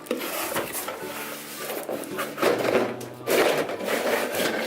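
Plastic toy pieces and their packaging being handled and taken out, an irregular rustling and clattering with sharp clicks.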